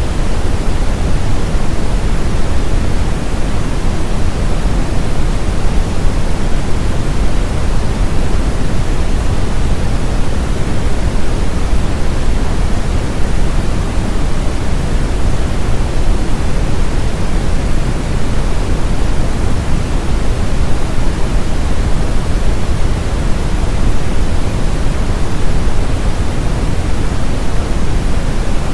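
Brown noise: a steady, deep hiss, strongest in the low end and falling off toward the highs, unchanging throughout, used as a sound masker for tinnitus.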